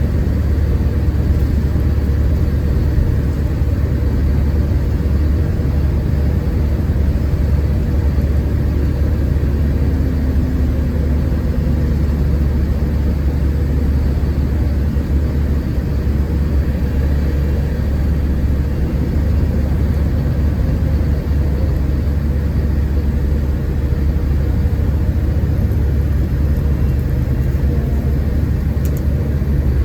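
Steady drone of a Scania K410IB coach heard from inside the cabin: the engine's deep hum under road and tyre noise as the bus drives, with no marked change in pitch or level.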